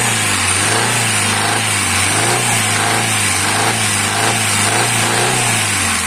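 Kia Picanto petrol engine revved and held at raised speed with the accelerator pressed, running with an even, repeating noise, dropping back near the end. The mechanic takes the noise for a damaged camshaft.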